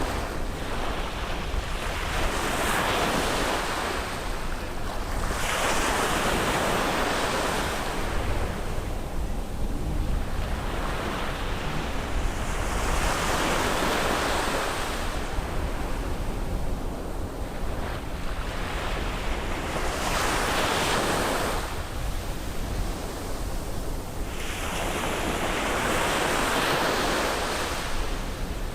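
Ocean waves breaking and washing up on a beach, one surge every few seconds, each swelling and fading away, over a steady low rumble of wind on the microphone.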